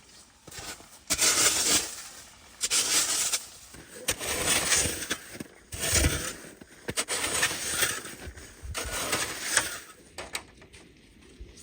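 Snow crunching in about six rough bursts, each around a second long, a second or two apart.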